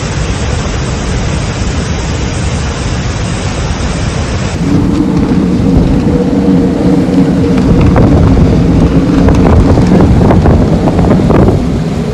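Loud storm noise: heavy rain with thunder. About four and a half seconds in it cuts to a different recording, with a low steady hum under the rain and scattered sharp cracks.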